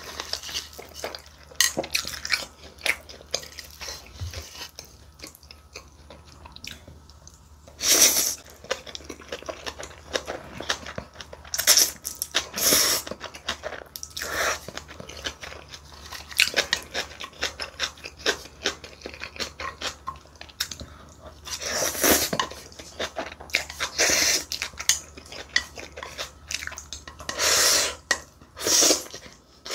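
Close-miked eating sounds: chewing and smacking of mouthfuls of spicy mixed rice, with a run of small mouth clicks and a louder burst every few seconds.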